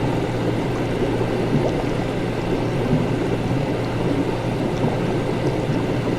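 Steady laboratory ambience: liquid bubbling and gurgling over a constant low equipment hum.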